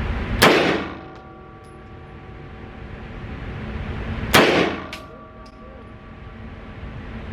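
Two rifle shots about four seconds apart, each followed by a ringing tone that fades away over a few seconds.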